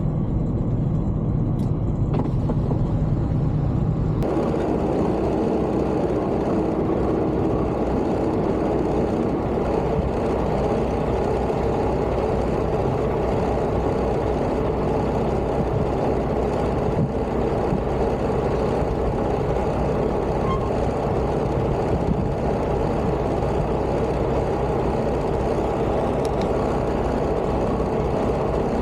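Semi-truck on the road: steady engine drone with road noise. About four seconds in the sound shifts abruptly to a broader, hissier road-and-wind noise that carries on evenly.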